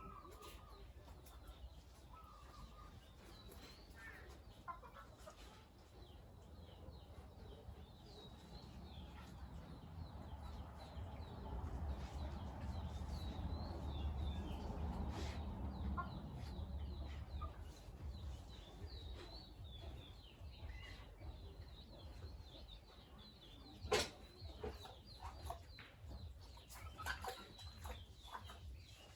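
Farmyard chickens clucking, with many short, high peeping chirps scattered throughout. A low rumble swells and fades in the middle, and a single sharp knock comes about three-quarters of the way through.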